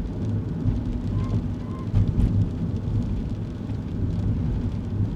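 Steady low road and engine rumble heard inside a kei car's cabin, driving on a wet road. Two short, faint beeps come about a second in, half a second apart.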